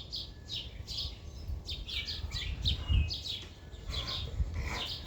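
Birds chirping: many short, quick chirps repeating and overlapping, over a low rumble like wind on the microphone.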